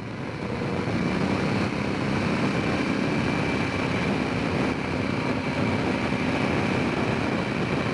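Honda Rincon 650 ATV's single-cylinder engine running steadily while riding, growing louder over the first second and then holding an even pitch.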